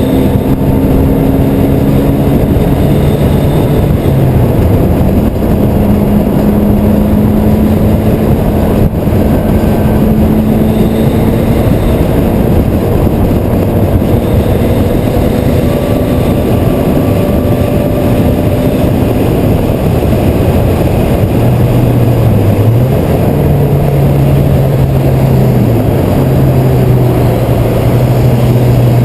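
Car driving at highway speed: loud wind and road noise over the engine, whose note climbs slowly, drops about five seconds in, and wavers up and down again in the last few seconds.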